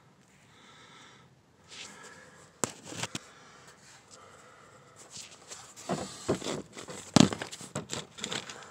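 Irregular clicks and knocks of handling: tools and hands clattering against engine parts while a socket and extension are worked toward a spark plug, sparse at first and getting busier, with the loudest knock near the end.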